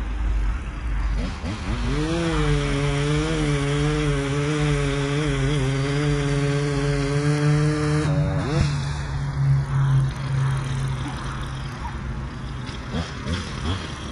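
Echo two-stroke chainsaw revved up about two seconds in and held at high speed, cutting wood, for about six seconds. The throttle is released about eight seconds in and the engine falls back to a low run.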